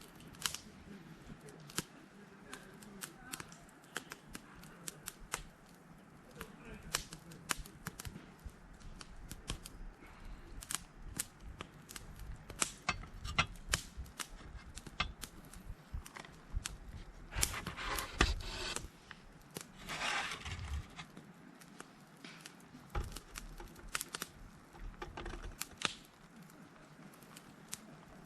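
Irregular sharp clicks and taps, coming thicker a little past halfway, with a short stretch of rustling soon after.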